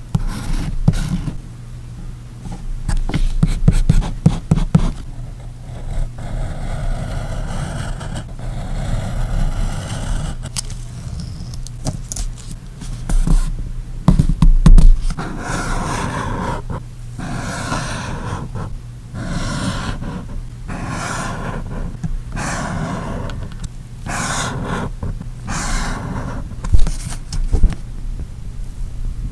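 Paper-crafting sounds from journal decorating: paper and tape being handled, then a rhythmic run of rubbing strokes over paper, about one a second, with a few sharp knocks in between.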